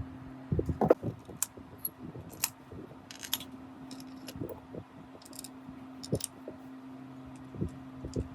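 Small metal parts and hand tools clinking and clicking at irregular intervals, the loudest knocks about a second in, over a steady low hum.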